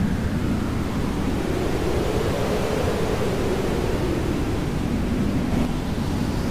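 Hair dryer running steadily: a continuous rushing hiss with a low hum whose pitch drifts slowly up and down.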